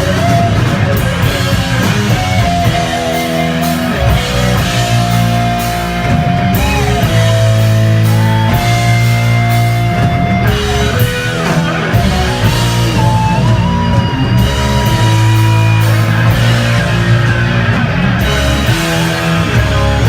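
Heavy metal band playing live and loud: distorted electric guitars over bass and a drum kit, with long held guitar notes that bend in pitch now and then above the heavy low chords.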